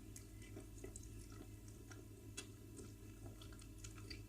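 Faint wet clicks and squishes of someone eating wheat fufu with egusi soup, scattered irregularly over a low steady hum.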